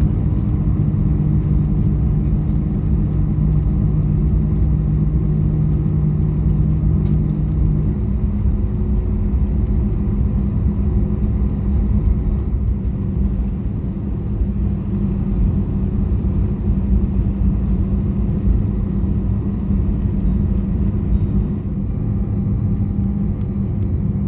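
Airbus A320 cabin noise during taxi-in after landing: a steady low rumble from the engines at idle and the aircraft rolling on the ground. A steady hum drops out about eight seconds in.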